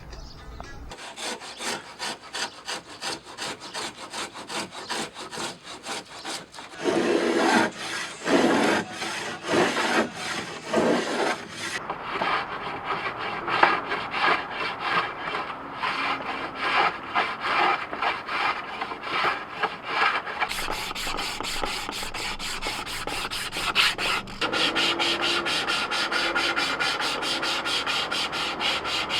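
Cedar boat trim being worked by hand with rapid, rhythmic back-and-forth strokes of an abrasive tool on the wood. The sound changes abruptly several times, as separate stretches of the work follow one another.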